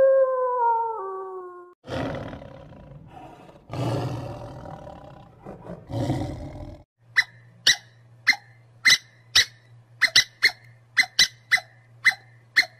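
A wolf's howl falls in pitch and ends within the first two seconds, followed by three rough roars from a lion. Then a run of sharp clicks, about two a second, comes from a red squirrel.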